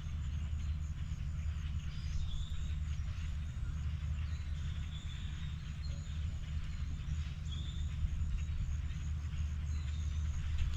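Footsteps of someone walking outdoors over a steady low rumble and a light even hiss, with a few faint high chirps.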